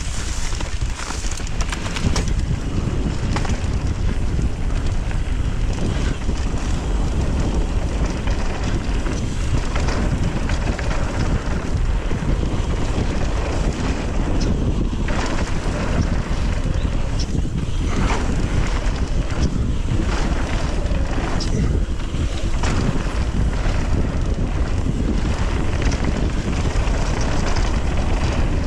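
Wind rushing over the microphone of a mountain bike rider descending at speed, a steady low rumble with scattered sharp clicks and rattles from the bike over rough trail.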